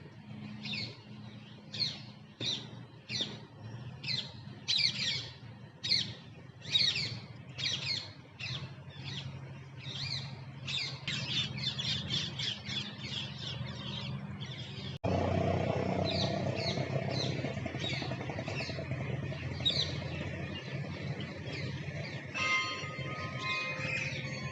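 Parrots calling: a quick run of sharp, falling screeches, one or two a second. After an abrupt cut about fifteen seconds in, the calls go on more sparsely over a louder steady hum, and near the end a tune of steady electronic-sounding notes starts.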